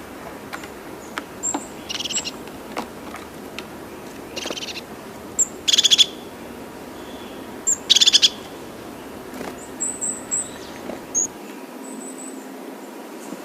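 Birds calling: short, rapid trills a few seconds apart, the loudest two about six and eight seconds in, followed by thin, high chirps.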